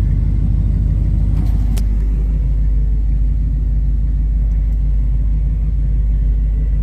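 Loud, steady low rumble with a couple of faint clicks about one and a half seconds in.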